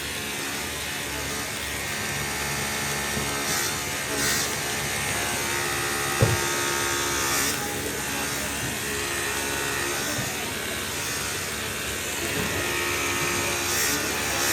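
Workshop machine's electric motor running with a steady buzzing hum, with a single sharp knock about six seconds in and a few short hisses.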